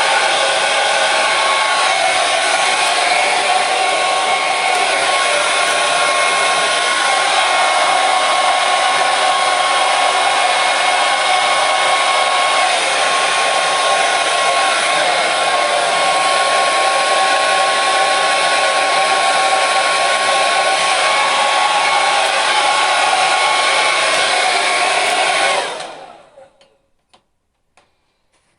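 Electric hair dryer blowing steadily, a rushing airflow with a thin motor whine. It cuts out near the end and dies away over about a second, leaving a few faint clicks.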